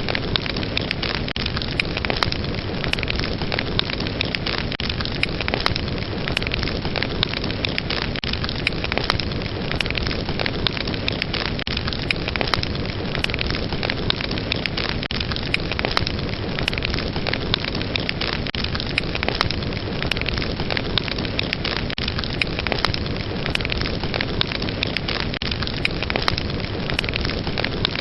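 Fireplace fire burning steadily: a constant rushing hiss with frequent small crackles and pops of the flames.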